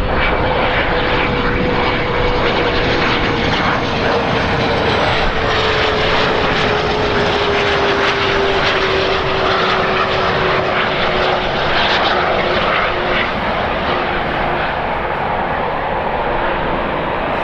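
Airliner engines running loud as a plane goes by, with a whine that slowly falls in pitch over a dense roar.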